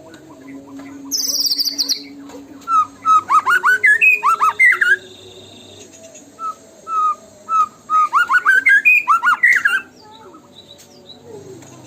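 White-rumped shama (murai batu) singing a lure song. A high, fast trill comes about a second in, then loud phrases of sweeping whistled notes. In the middle there are single notes repeated about twice a second, and a break near the end.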